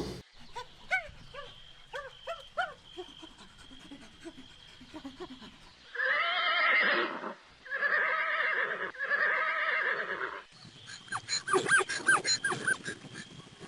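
Animal calls: soft short chirps for the first few seconds, then three loud drawn-out calls one after another about six seconds in, then a rapid run of short calls near the end.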